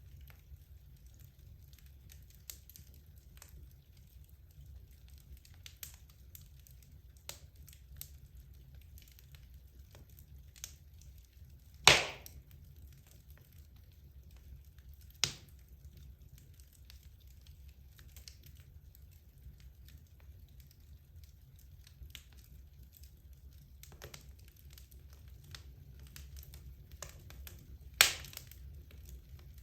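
Wood logs burning in a fireplace: scattered small crackles and pops over a low, steady rumble, with a loud sharp crack about twelve seconds in, another about fifteen seconds in and one more near the end.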